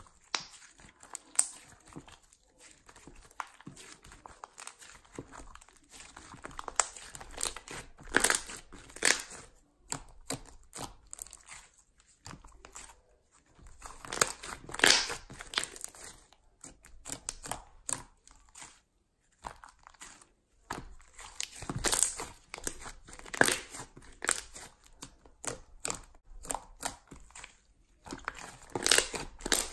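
Slime being squeezed, stretched and pressed by hand, giving bursts of sticky crackling and popping clicks with quieter pauses between.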